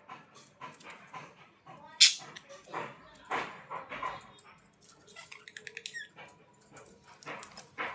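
A series of short, sharp animal calls, the loudest about two seconds in, with a quick run of ticking calls a little past the middle.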